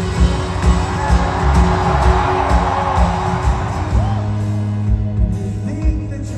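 Live rock band playing through a concert PA, with a steady drum beat and, after about four seconds, held guitar and keyboard chords. A swell of crowd cheering and whooping rises over the band in the first half.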